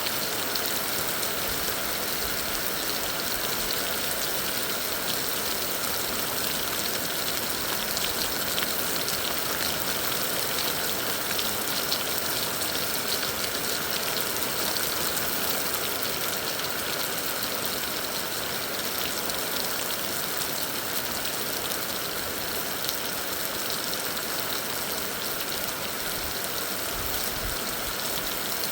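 Heavy rain falling: a steady, dense hiss with faint ticks of individual drops.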